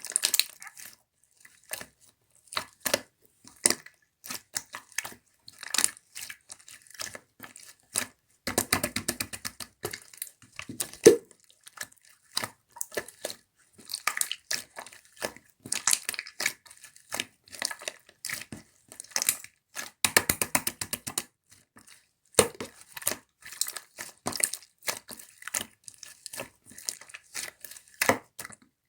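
Slime being worked by hand, giving irregular sticky clicks and pops as it is pressed, folded and stretched. There are two spells of rapid crackling, about eight seconds in and again about twenty seconds in.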